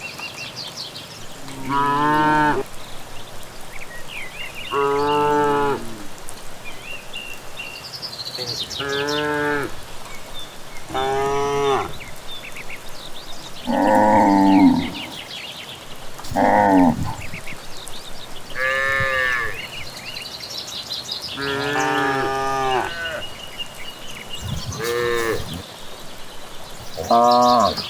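Cattle mooing repeatedly: about ten moos, each around a second long and spaced a couple of seconds apart, some higher and some lower in pitch, as from several cows. Faint bird chirps sound between the moos.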